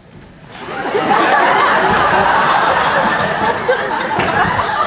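Theatre audience laughing: the laughter swells up about half a second in and carries on loudly.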